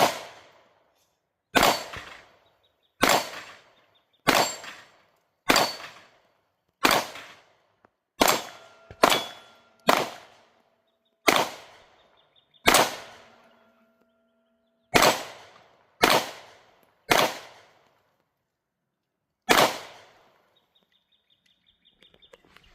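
Canik Prime pistol fired at steel targets: about fifteen single shots at an unhurried pace of roughly one every second or so, with two short pauses. A few of the hits leave a faint ringing from the steel plates.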